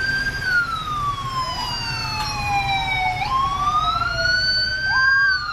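Police siren wailing: a slow wail that falls over about three seconds and then rises again, with a second siren tone overlapping it and a low rumble underneath.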